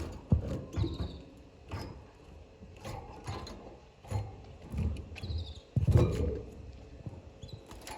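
Canaries giving two short high chirps amid irregular clicks, knocks and low thumps.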